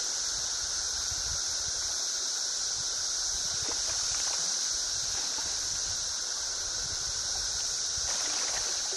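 Chorus of cicadas from a mass hatch: an unbroken high-pitched drone with a second, lower steady band beneath it, over the low rush of river water.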